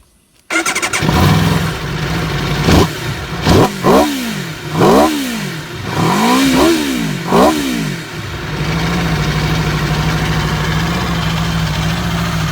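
A superbike engine starting suddenly, then revved with about seven quick throttle blips, each rising and falling, before it settles into a steady idle.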